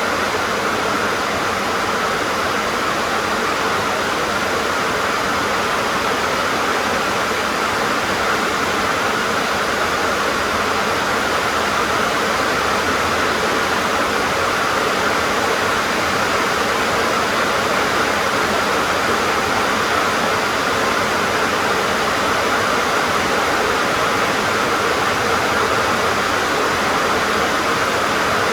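Steady heavy rain drumming on a metal sheet roof, an even dense hiss with no breaks.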